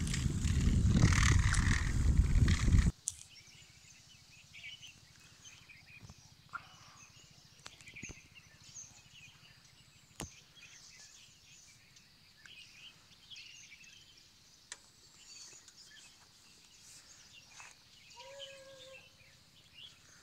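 A loud rushing noise for about three seconds cuts off suddenly. Quiet open-air ambience follows, with birds chirping here and there, a few faint clicks, and a short call near the end.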